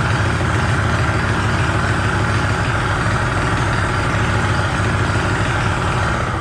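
Pit bike engine running steadily at idle.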